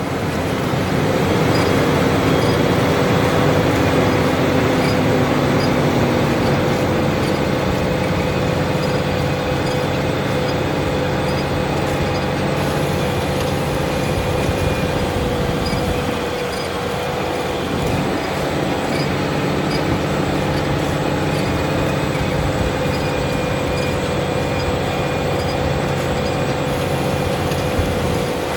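Fendt tractor running steadily while ploughing, with a constant whine over the engine. A lower engine note drops slightly about six seconds in.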